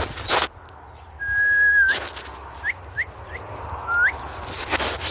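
A person whistling to call dogs: one long steady whistle ending in an upward flick, then a few short rising whistles. There is a brief rush of noise at the start.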